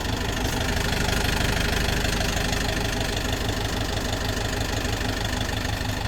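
Tractor engine running steadily at low speed, with a slight swell about a second in.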